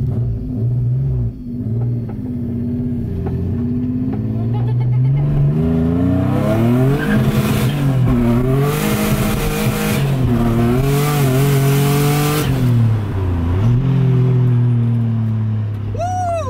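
Single-turbo Nissan 350Z's V6 engine revving up and easing off several times under hard acceleration, with a loud rush of boost and exhaust from about six seconds in until near twelve seconds, then settling to a steadier drone.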